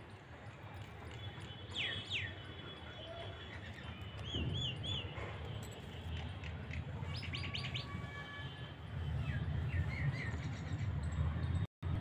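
Small birds chirping in short whistled phrases: a pair of falling sweeps about two seconds in, a run of quick up-and-down notes a couple of seconds later, and a fast series of notes about seven seconds in. Under them is a steady low rumble that gets louder in the last few seconds.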